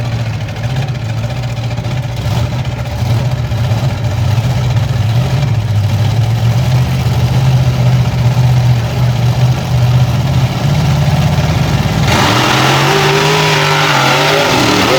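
Monster truck engines running at the start line with a steady, deep idle that slowly grows louder. About twelve seconds in it changes suddenly to a harsher, louder sound with a hiss and wavering higher tones as the engines rev hard.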